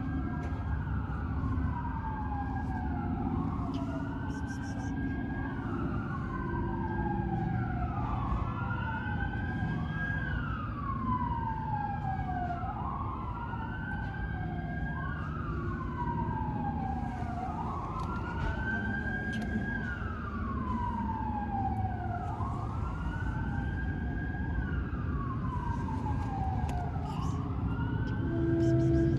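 Emergency vehicle siren wailing, its tone sweeping up and down roughly every two seconds, over a steady low rumble. A louder low hum joins near the end.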